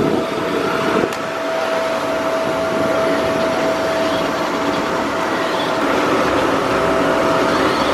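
Bounce house's electric blower fan running steadily: a constant whine over rushing air.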